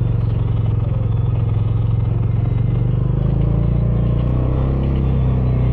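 Bajaj Dominar 400's single-cylinder engine running steadily through its stock dual exhaust, holding a fairly constant engine speed.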